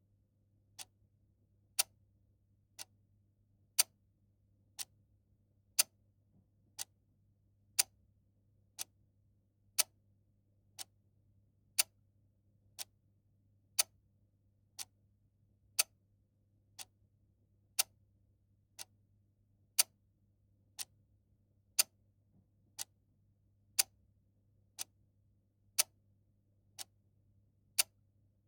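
A clock ticking steadily, about one tick a second, the ticks alternating louder and softer in a tick-tock pattern.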